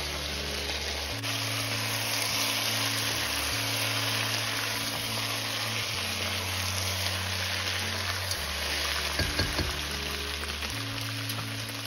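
Potatoes and cauliflower sizzling steadily in hot spiced oil in a pot while being sautéed and stirred with a silicone spatula.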